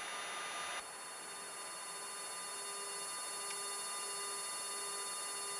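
Steady flight-deck background noise of a Boeing 767-300ER in descent: an even hiss with faint steady high tones, easing slightly about a second in.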